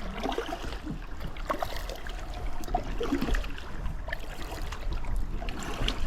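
Kayak paddle strokes with water splashing and dripping around the hull, over a low rumble of wind on the microphone.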